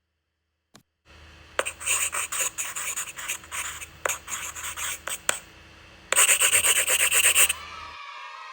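Rapid scratchy rubbing strokes in two spells, the second louder and denser, over a faint low hum. Near the end a fainter held sound with several tones sets in.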